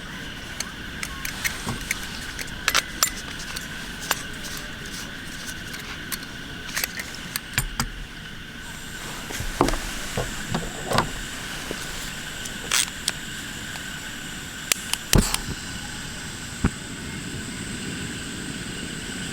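Irregular clicks, taps and knocks, as of small objects being handled and set down, over a steady background hiss with faint high steady tones.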